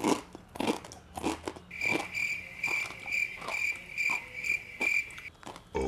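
Crunchy chewing of dry, uncooked Wai Wai instant noodles eaten straight from the packet, a run of sharp crunches. From about two seconds in until near the end, a high cricket-like chirp repeats a little over twice a second.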